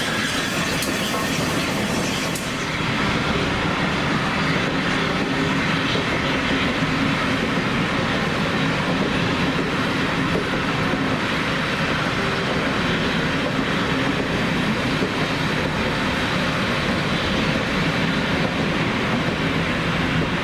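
A train running past at a steady level, a continuous rumble and rattle of wheels and stock on the track.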